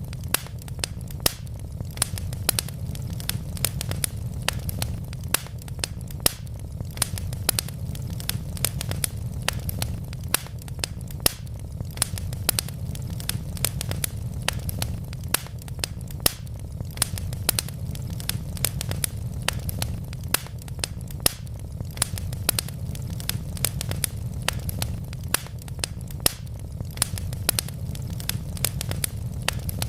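Wood fire burning in a fireplace: a steady low rumble of the flames with frequent sharp, irregular crackles and pops from the burning logs, several a second.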